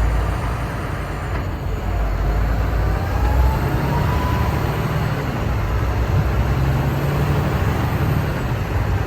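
Semi-truck driving at highway speed, heard from inside the cab: a steady engine drone under tyre and road noise.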